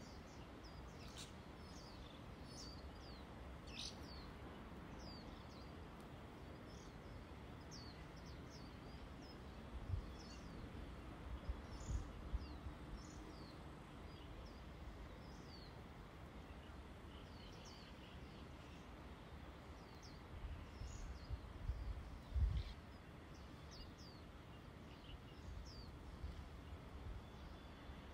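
Small birds chirping, with short repeated high chirps over a quiet outdoor hiss. A few brief low rumbles come about a third of the way in and again past the middle.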